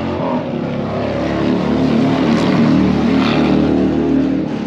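A motor vehicle's engine running, its hum swelling to a peak about three seconds in and dropping off near the end.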